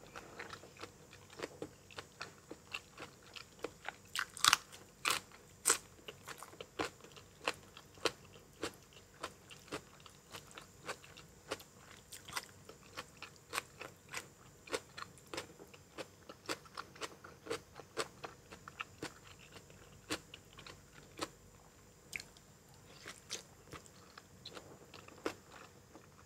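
Close-up chewing of crunchy food, a steady run of sharp, irregular crunches about one to two a second, loudest around four to six seconds in.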